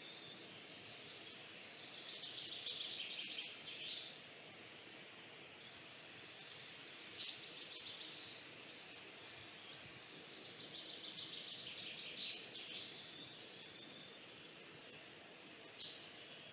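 A bird singing: short, sharp, high chirps about every four to five seconds, some with a fast trill around them, over a steady faint hiss.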